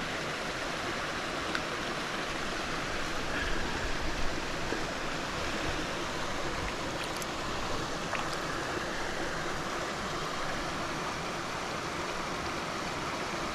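Small, fast-flowing moorland stream running over rocks, a steady rush of water with a few faint clicks.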